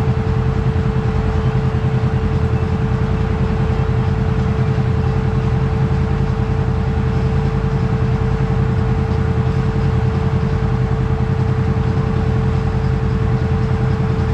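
Kawasaki KRX4 1000 side-by-side running at a steady pace on a trail, its engine droning evenly with a steady whine over it.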